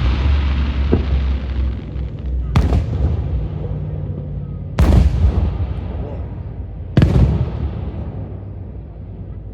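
Fireworks shells bursting overhead: three loud booms about two seconds apart, each trailing off in a low rumble.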